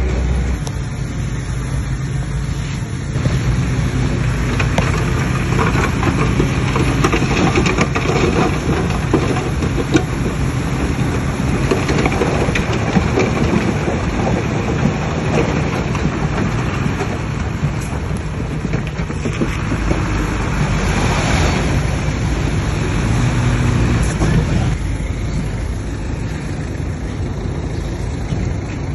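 Bulldozer's diesel engine running steadily under load, with a harsher, noisier stretch from a few seconds in until near the end.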